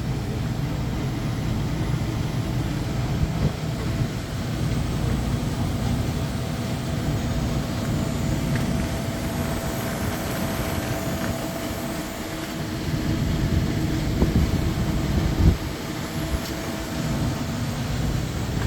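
Walk-in freezer condensing unit with a single-phase 1.5 hp hermetic compressor running steadily on its test run after replacement: a constant hum and fan drone with a steady mid-pitched tone. A brief knock sounds about 15 seconds in.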